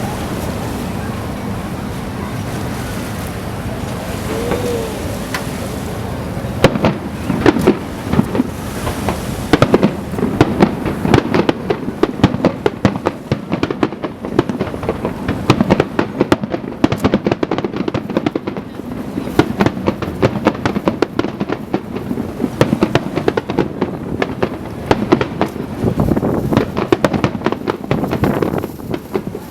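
Aerial fireworks display: a low rolling rumble of echoing bursts for the first few seconds, then from about six seconds in a dense, rapid barrage of sharp cracks and booms that keeps going.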